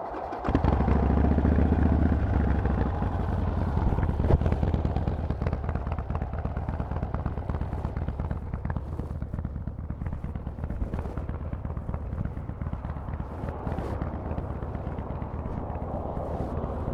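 Harley-Davidson Forty-Eight's 1200 cc air-cooled V-twin with Vance & Hines exhaust catching about half a second in, running at a fast idle for a couple of seconds, then settling into a lumpy, pulsing idle. A single sharp knock sounds about four seconds in.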